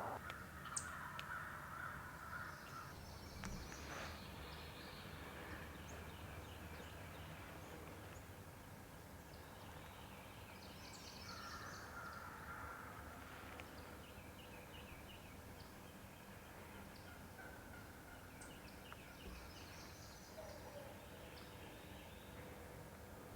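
Faint gobbling of wild turkeys, three rattling gobbles spaced several seconds apart.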